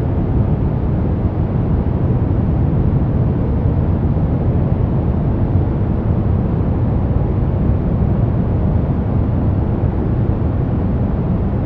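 Steady brown noise: a deep, even rushing hiss weighted toward the low end, with no changes or distinct events.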